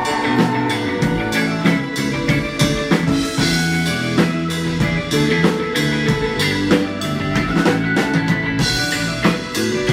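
Live rock band playing an instrumental passage: a drum kit beating a steady rhythm with electric guitar and bass, with no singing.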